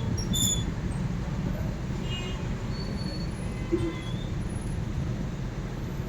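Steady low rumble of a car heard from inside the cabin, with a few faint short high beeps.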